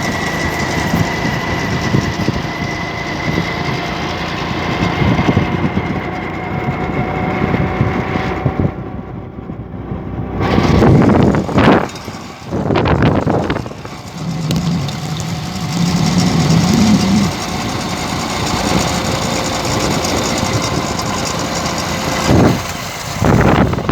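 Motorcycle running at road speed, its engine note mixed with road and wind rush. A few louder surges of rushing noise come in the second half.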